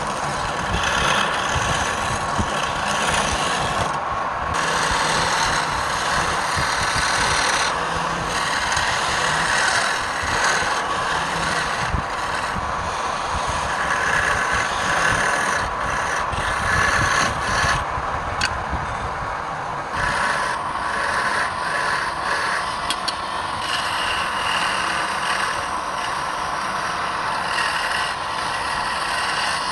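Wood lathe running, with a tool or abrasive rubbing and rasping against the spinning wood; a steady hum under a rough scraping that swells and eases several times.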